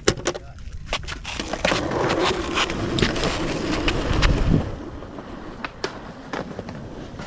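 Skateboard wheels rolling on pavement, a loud rumble that builds from about a second in and fades out after about four and a half seconds, with scattered clacks and knocks.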